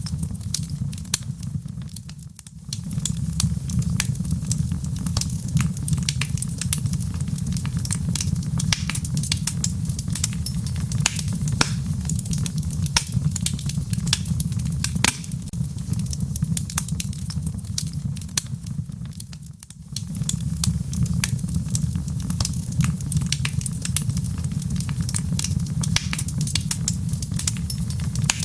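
Fireplace wood fire crackling, with frequent irregular sharp pops over a steady low rumble. The sound briefly drops away twice, about 17 seconds apart.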